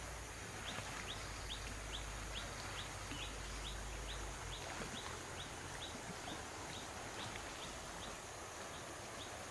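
A bird calling one short, rising note over and over, about three times a second, against steady outdoor background noise.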